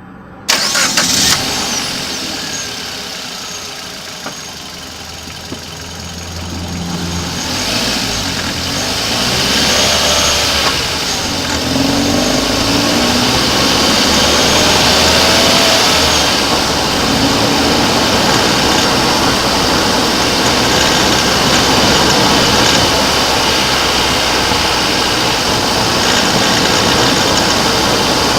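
Hyundai i30 engine running steadily, the car the owner says has an unwanted noise in its engine. The sound comes in suddenly about half a second in and gets louder from about seven seconds, then holds steady.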